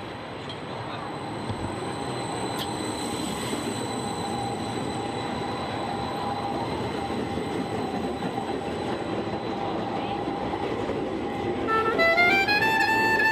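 Electric street tram running along the street, a steady rumble with a constant whine that grows gradually louder as it approaches. Brass-band style music comes in near the end.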